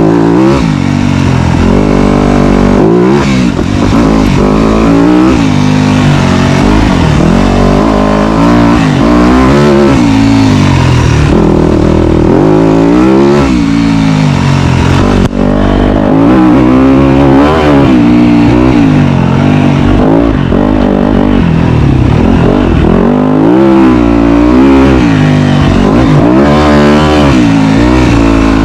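Dirt bike engine, loud and close, revving up and down over and over as the throttle is worked on the trail. Its pitch keeps climbing and dropping every second or two.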